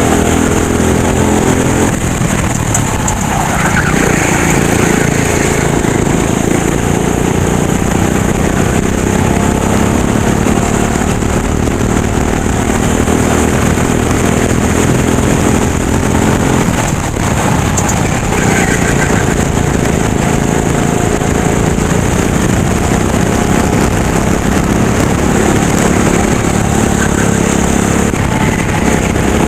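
Racing kart engine running hard throughout, its pitch climbing as it accelerates and falling away when the throttle is lifted, with clear lifts about two seconds in and again past the middle.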